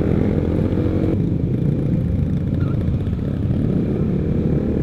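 Honda CBR150R's single-cylinder four-stroke engine running through an aftermarket R9 exhaust while the motorcycle is ridden, a steady exhaust rumble.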